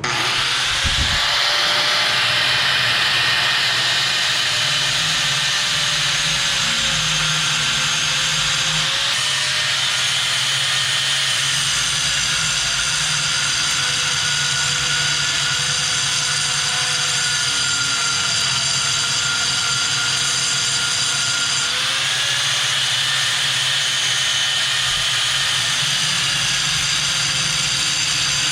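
Angle grinder with a thick grinding disc running on scrap metal, cutting notches. It starts abruptly and runs steadily, its motor pitch dipping a little under load and picking up again.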